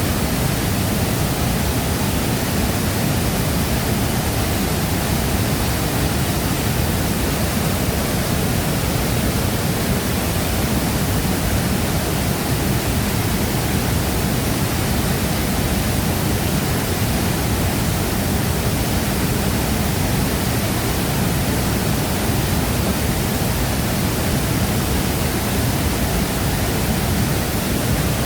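Waterfall pouring into its plunge pool: a loud, steady, unbroken rush of water.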